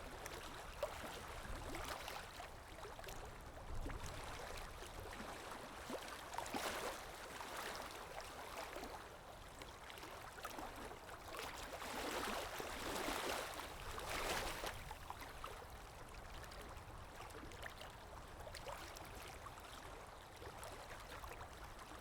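Gentle river water lapping and gurgling, a steady soft wash of water that swells louder a few times.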